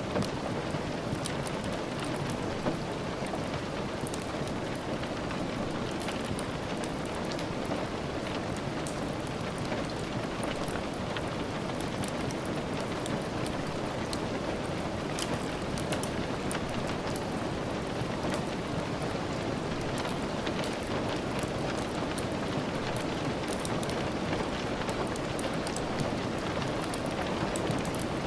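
Steady rain, a dense even hiss, with many small sharp ticks and crackles scattered through it from a wood fire crackling in the hearth.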